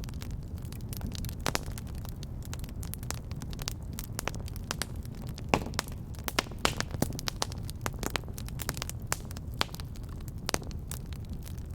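Fire crackling in a fireplace: irregular sharp pops and snaps over a low, steady rumble, with a busier run of pops a little past the middle.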